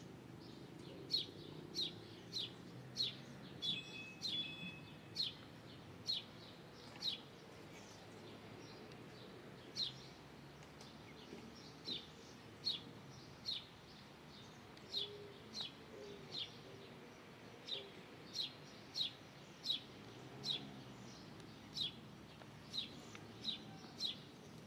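A small bird chirping over and over: short, sharp chirps, each falling quickly in pitch, about one a second with a brief pause partway through.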